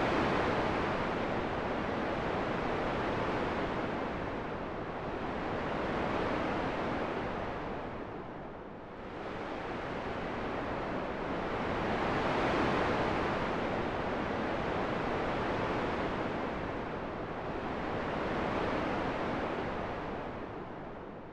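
Rushing wind that swells and eases in slow gusts every few seconds, dipping lowest about nine seconds in and again near the end.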